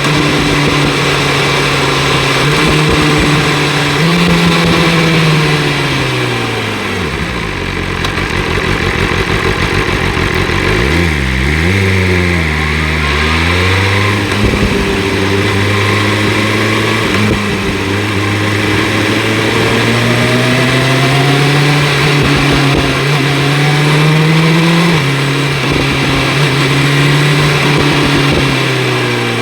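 BMW S1000 RR inline-four with an Akrapovic exhaust, riding through the gears. The revs fall away about six seconds in and change quickly up and down a few times around eleven seconds. They then climb steadily for about ten seconds before easing off near the end.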